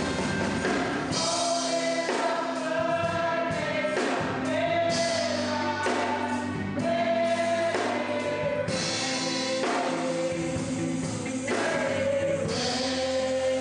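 Gospel choir singing over instrumental accompaniment with held chords.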